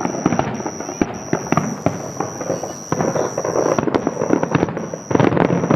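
Fireworks grand finale: a dense, rapid string of bangs and crackling from many aerial shells bursting in quick succession. A thin steady high-pitched whine runs behind it in broken stretches.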